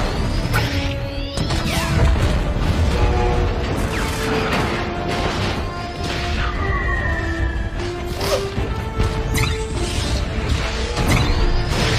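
Action-film battle sound mix: dramatic score music under repeated heavy crashes and impacts, a deep rumble, and mechanical whirring with gliding whines of a giant robot attacking.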